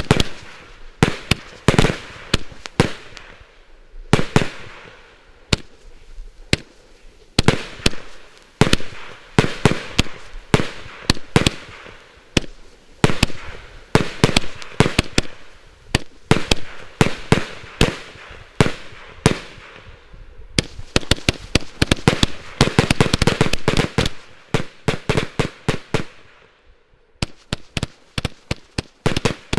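A 281-shot double compound firework battery (the I-Like-Legal Armageddon) firing shot after shot as sharp bangs. About two-thirds of the way through the shots come in a fast, dense volley, then break off briefly before single shots resume near the end.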